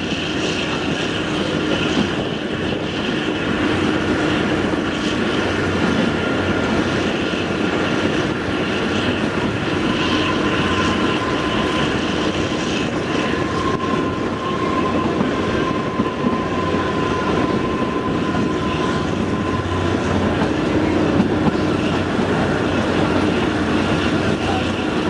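Narrow-gauge train running, heard from a carriage window: a steady rumble of wheels on rail, with a faint high whine through the middle stretch.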